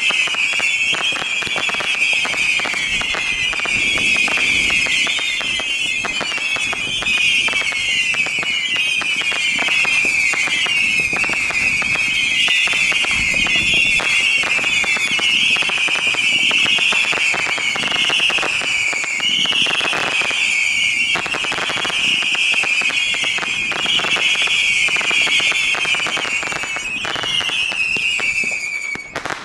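Many whistling fireworks going off together: dense, overlapping shrill whistles, each falling in pitch, over continuous crackling and popping.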